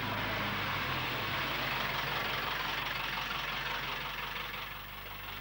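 Hindustan Ambassador car engine running steadily as the car drives in and comes to a stop, a low hum under a broad hiss, easing slightly near the end.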